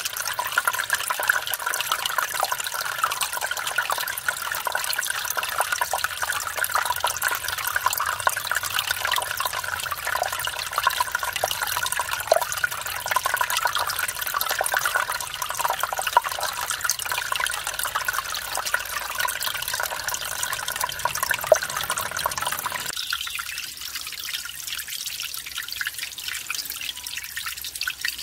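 Mountain stream running over a small waterfall, a steady rush and splash of water. About five seconds before the end it changes abruptly to a thinner, higher trickling and dripping.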